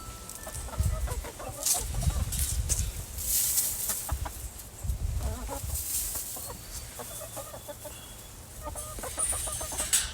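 Chickens clucking, short calls repeated on and off, among several short bursts of scratchy noise.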